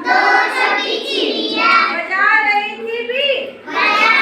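A group of children singing a Hindi counting rhyme in unison.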